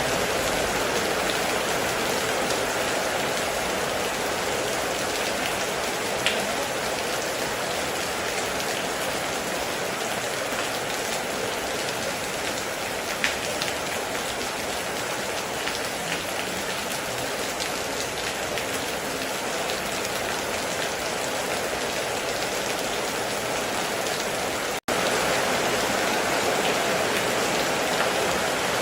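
Heavy rain falling steadily, an even hiss with a few single drops standing out. It cuts out for an instant about 25 seconds in and comes straight back slightly louder.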